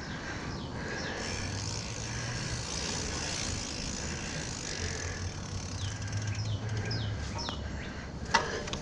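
Steady outdoor traffic noise with a low vehicle engine hum that swells and fades, and a few short high chirps.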